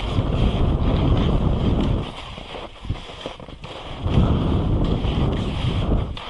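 Strong wind buffeting the microphone in gusts: a loud low rumble for the first two seconds, easing, then rising again about four seconds in, over a steady hiss.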